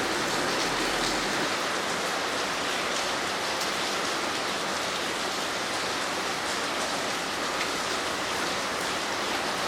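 Heavy rain falling and pattering on surfaces: a steady, even hiss with scattered drop ticks.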